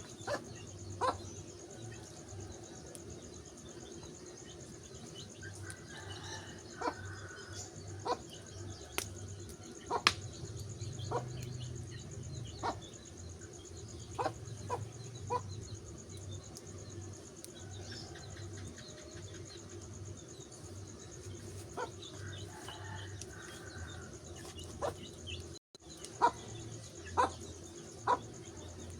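Wood fire crackling, with sharp, irregularly spaced pops over a steady low rumble. The loudest pop comes about ten seconds in.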